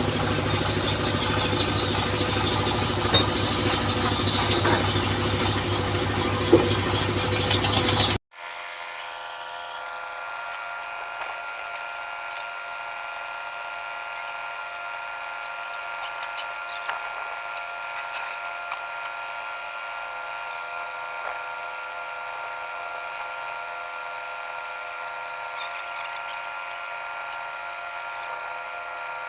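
A loud machine running steadily, likely the boat's engine, which cuts off abruptly about eight seconds in. A quieter, steady whine made of several fixed high tones follows.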